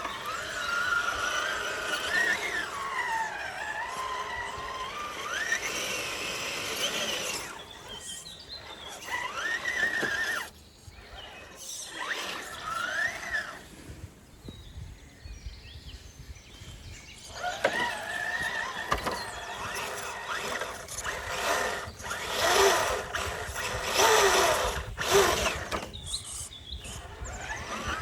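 Electric motor and drivetrain of a 1/10-scale RC rock crawler whining, the pitch rising and falling as the throttle is worked, with a quieter lull in the middle.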